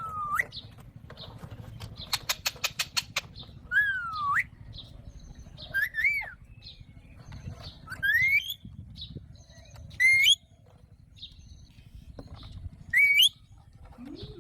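Alexandrine parakeet calling: five loud, short, whistled squawks that slide in pitch, most of them rising, about two seconds apart. About two seconds in comes a quick run of about eight clicks.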